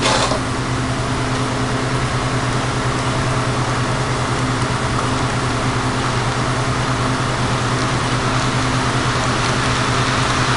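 Model train running on a layout: a steady electric hum with the even rush of wheels rolling on the track, after a short click right at the start.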